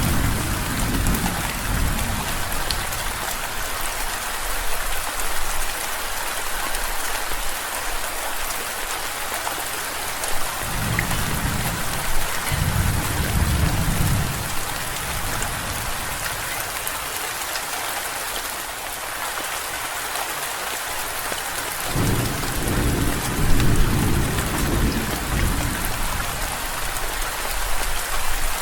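Steady, even rainfall with rolling thunder: a rumble fading out at the start, two close low rolls in the middle, and another about two-thirds of the way through.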